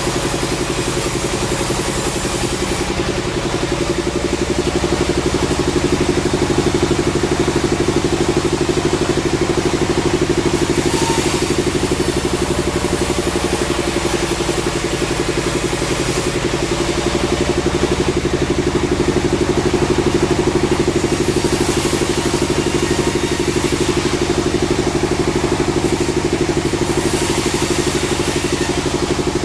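Sawmill machinery running steadily with an engine drone, and a high hiss that rises and falls every few seconds.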